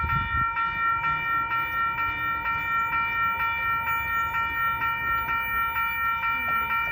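Railroad crossing signal bell ringing in a fast, steady rhythm of repeated strokes, each with a bright metallic ring. This is the warning that a train is approaching the crossing.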